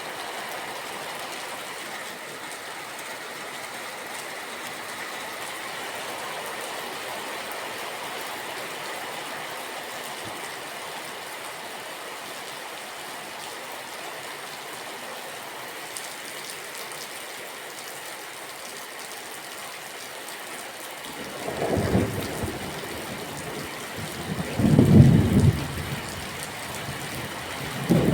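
Steady rain hiss. Several rolling rumbles of thunder come in near the end, the loudest a few seconds before the last.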